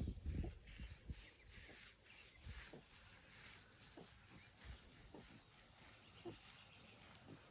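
Pet pig grunting softly, short low grunts about a second apart, with a louder burst of low grunting right at the start.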